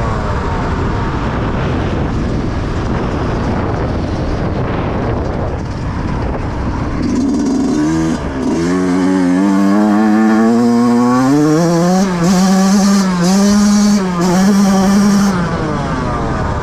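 Yamaha YZ125 two-stroke motocross engine running hard: the engine note climbs steadily, then is held high with three brief throttle chops near the end.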